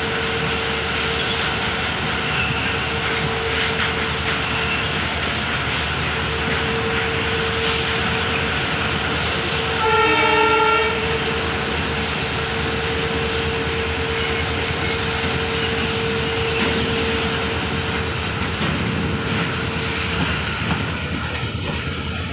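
Steady rumble and clatter of two trains running side by side, a moving passenger coach and a freight train of boxcar wagons on the next track, with a steady high whine through most of it that stops about two-thirds of the way in. About ten seconds in, a locomotive horn blows once for about a second.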